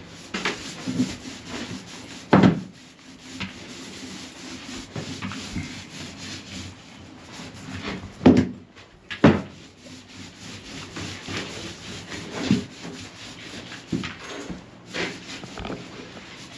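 Gritty rubbing strokes of paint being worked over a trailer floor that has sand in the paint, with loud knocks about two, eight and nine seconds in.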